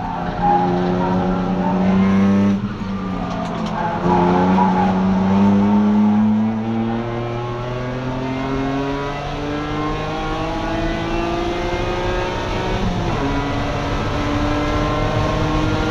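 BMW E46 track car's engine heard from inside the cabin, pulling hard under acceleration with its pitch climbing. The pitch drops with a gear shift about two and a half seconds in and again about thirteen seconds in.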